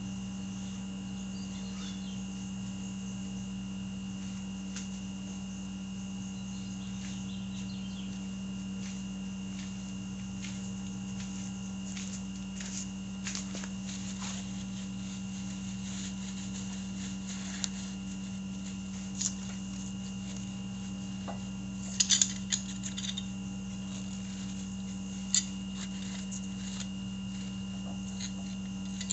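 Steady background hum with a faint high tone, and scattered light clicks and knocks of hand work on a motorcycle's front brake. A cluster of sharper clicks comes late on.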